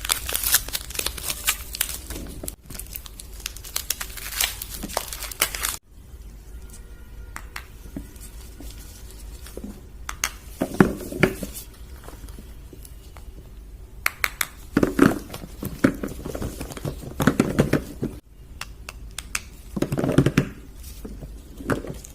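Soap bar wrappers crinkling and being torn open, with dense crackling for the first six seconds and then duller handling rustles in short bursts.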